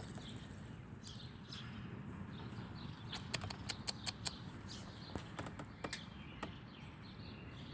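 Small birds chirping faintly, with a quick run of about eight sharp clicks three to four seconds in and a few scattered clicks after.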